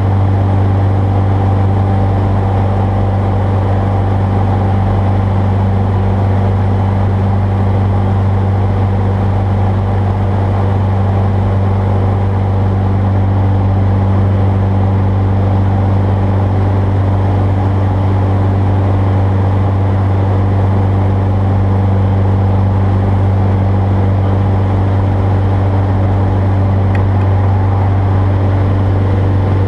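Jabiru J-170 light aircraft's air-cooled four-cylinder engine and propeller running at a constant setting: a loud, steady, low drone that holds one pitch throughout.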